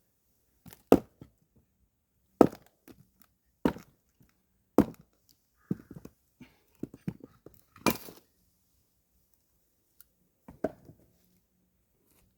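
Firewood being split by hand with an axe: about seven sharp blows into wood, spaced a second or so apart, with smaller knocks and cracks of splitting wood between them, then a pause and one more blow near the end.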